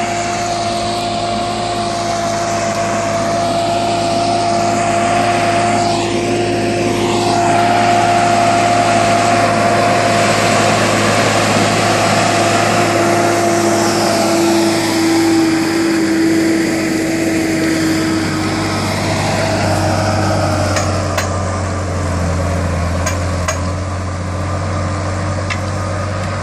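John Deere tractor's diesel engine running steadily with a constant whine over a low hum; the pitch sags a little about two-thirds of the way through and the low hum grows.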